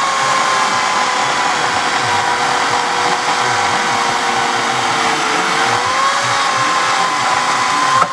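Homelite 14-inch electric chainsaw running flat out with a steady high whine; its pitch sags a little about five seconds in and recovers, then the motor is let off right at the end and starts to wind down.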